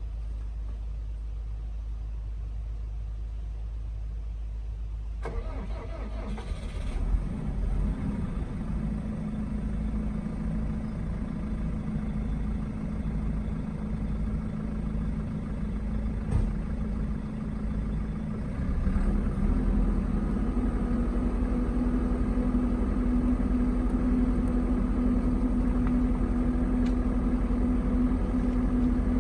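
A logging machine's diesel engine cold-started at about 12 degrees: it catches about five seconds in and runs unevenly at first, then about nineteen seconds in it steps up to a louder, steadier idle. It fires right up in the cold.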